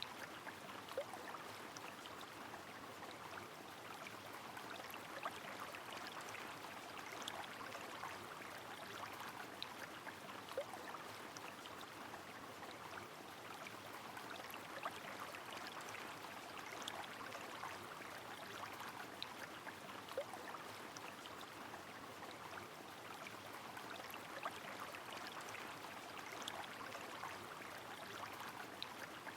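Rain falling on a flowing river: a steady, even hiss of water, with scattered sharp drop-like ticks every couple of seconds.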